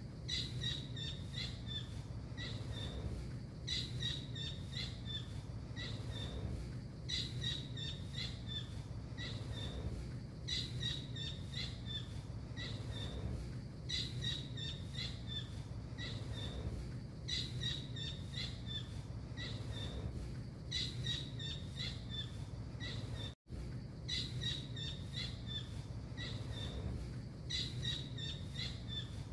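Tengkek biru (a blue kingfisher) calling: the same burst of rapid, shrill high notes repeats about every three and a half seconds, as in a looped masteran recording used to train songbirds. A steady low hum runs underneath, and the sound cuts out for a split second about two-thirds of the way through.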